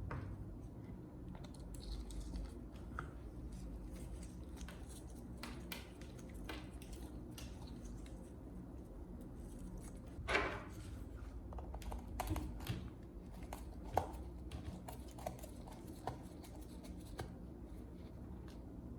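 Scattered light clicks, taps and small scrapes, as of hands working on parts, over a steady low hum. There is a louder brief rasp about ten seconds in and a sharp click near fourteen seconds.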